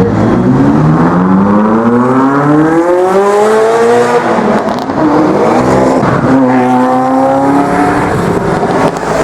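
Ferrari F40's twin-turbo V8 accelerating hard: the engine note climbs steadily for about four seconds, drops at a gear change and climbs again.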